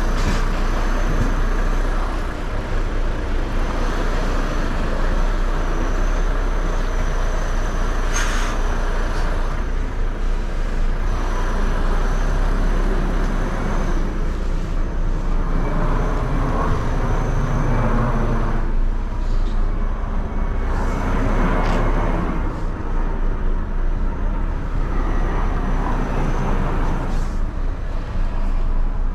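Truck's diesel engine running at low revs, heard from inside the cab while the lorry reverses slowly, as a steady low hum. A brief sharp noise comes about eight seconds in.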